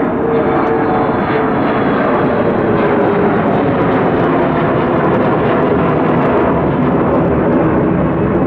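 Mitsubishi CRJ-900 regional jet taking off, its two rear-mounted turbofans at takeoff thrust: loud, steady jet engine noise, with a faint whine that fades out in the first second or so.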